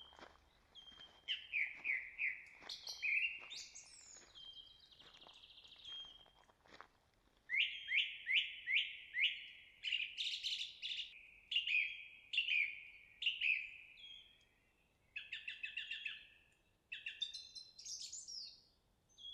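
Songbirds singing in a woodland: loud phrases of quick, falling whistled notes, repeated over and over, with higher chirps mixed in. Footsteps on the trail are heard under the song for the first several seconds, then stop.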